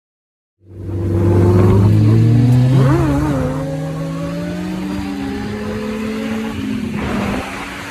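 Motorcycle engine accelerating, starting suddenly just under a second in, its pitch climbing over a few seconds and then holding fairly steady.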